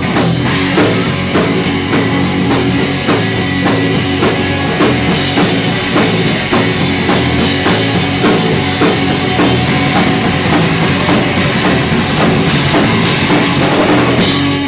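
Live rock band playing a loud instrumental passage on drum kit and electric guitar, with steady, even drum hits. The band stops abruptly at the end.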